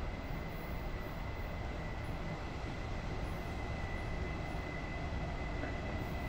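Ming Ri tourist train approaching along the platform of an underground station: a steady low rumble that grows slightly louder, with a thin steady high tone running through it.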